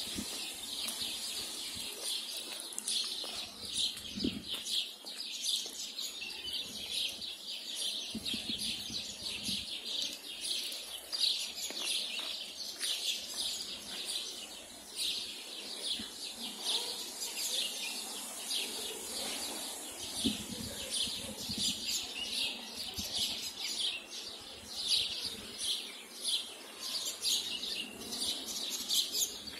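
Many small birds chirping in the trees: a dense, continuous chorus of short, high chirps.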